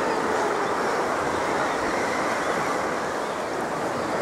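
Steady wash of sea water lapping around a sea kayak.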